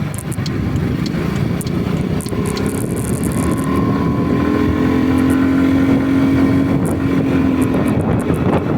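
A vehicle's engine running on the move, with road and wind noise. Its note comes through as a steady tone from about the middle, and the overall level climbs slowly.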